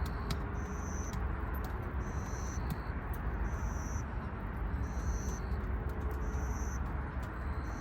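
A high-pitched chirp from a night insect, repeating evenly about every second and a half over a steady low rumble and hiss of outdoor ambience.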